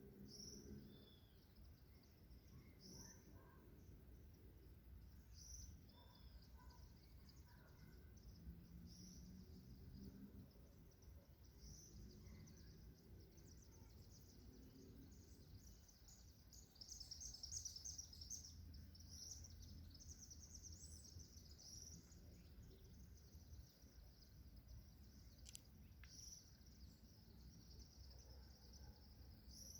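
Faint bird calls: scattered short high chirps, with a rapid trill of chirps about two-thirds of the way through, over a low steady background rumble.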